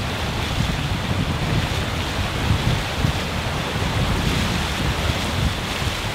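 Wind buffeting the microphone over the steady rush of water along the hull of a Volvo Ocean 65 racing yacht under sail.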